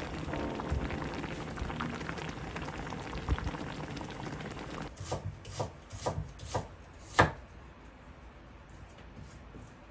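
Kitchen cooking sounds: a steady hiss that fades away, then a run of about six sharp knocks, the last one the loudest.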